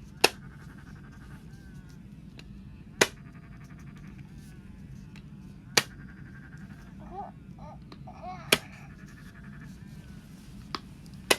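Hatchimal toy's beak pecking at its plastic egg shell from inside: five sharp taps about three seconds apart, with faint warbling between them.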